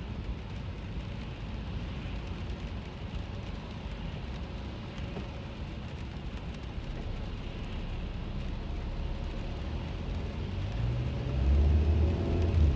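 Car in motion on a rainy road, heard from inside the cabin: a steady low road and engine rumble with faint raindrop ticks. About eleven seconds in, a louder low drone rising in pitch swells up.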